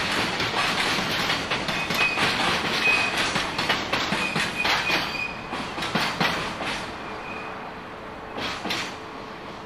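Freight train wagons rolling past slowly as the train arrives, wheels clicking over the rail joints, with several short high squeals from wheels or brakes. The sound dies down over the last few seconds as the train slows.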